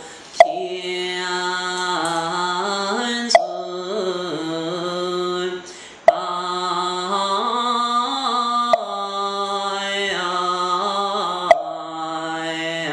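Daoist priest chanting a slow Quanzhen hymn, holding long notes that step and glide in pitch. A sharp percussion knock keeps time about every two and three-quarter seconds, louder than the voice.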